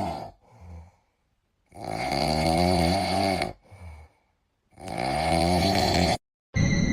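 Snoring: two long, drawn-out snores about three seconds apart, with a short fainter one at the start.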